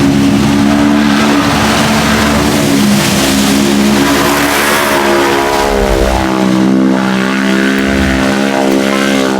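Off-road vehicle engine running hard at high revs: a loud, steady drone whose pitch wavers a little.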